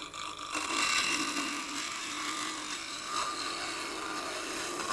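Bowl gouge cutting a spinning, dried magnolia bowl blank on a wood lathe: a steady hiss of shavings coming off over the lathe's running, as the bowl is trued round.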